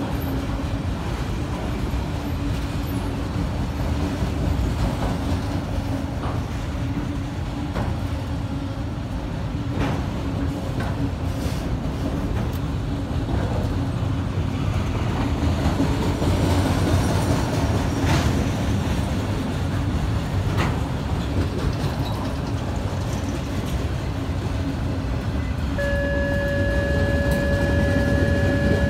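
CSX freight train of autorack cars rolling past: a steady rumble of wheels on rail with scattered clicks. Near the end a steady high tone sounds for about three seconds.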